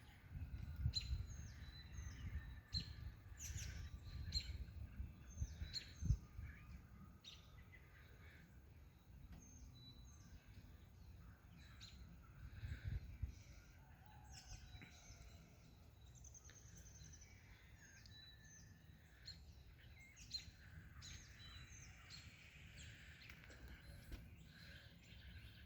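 Songbirds chirping and calling faintly on and off throughout, over a low rumble.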